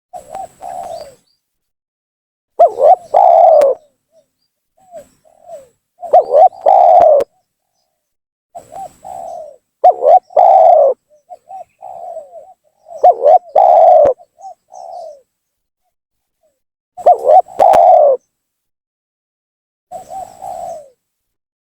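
Spotted dove (tekukur) cooing repeatedly as a lure call. Five loud coo phrases come about every three and a half seconds, with softer coos between them.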